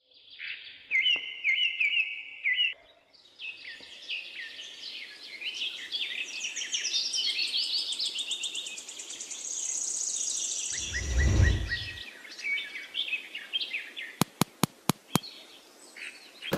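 Songbirds chirping and trilling, several songs overlapping. A deep low rumble swells briefly about eleven seconds in and is the loudest moment. Five sharp clicks follow in quick succession near the end.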